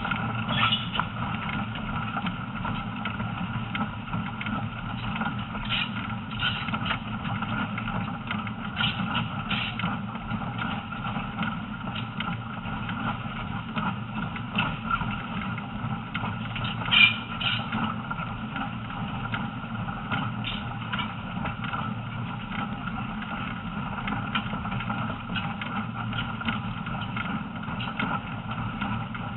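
A passenger train running along the track, heard on board: a steady rumble of wheels on rails with scattered clicks and squeaks. There is a brief, louder high squeak a little past halfway.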